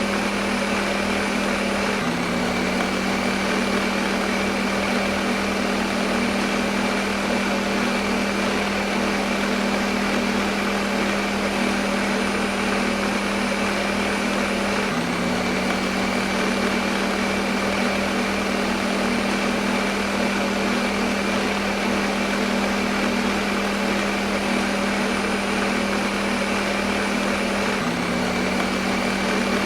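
Electric blender motor running continuously at a steady speed, a constant whirring hum. The motor tone shifts slightly three times, about every 13 seconds.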